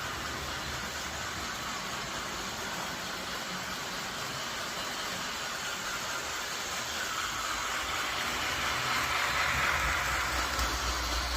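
A train running along the track, a steady rumble and hiss that swells louder for a few seconds near the end.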